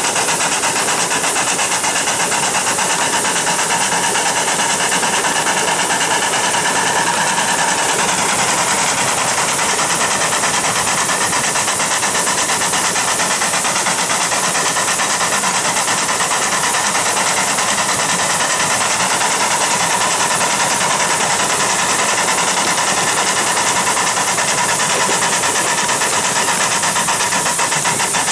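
A train running, with steady rail noise and a faint whine that holds level throughout and shifts slightly about eight seconds in.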